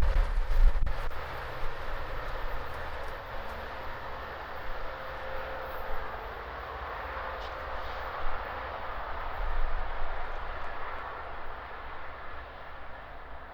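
Metra commuter train receding after passing close by: a few last wheel clicks at the start, then its rumble fades away steadily.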